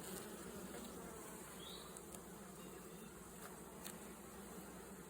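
Honeybees from an opened hive buzzing in a faint, steady hum, with a few faint ticks.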